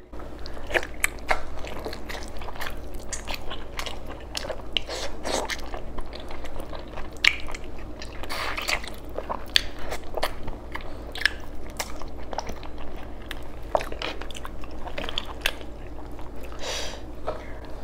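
Close-up eating sounds of beef oxtail nilaga: biting and chewing, with many small, irregular wet clicks and crunches as the meat is eaten off the bone by hand.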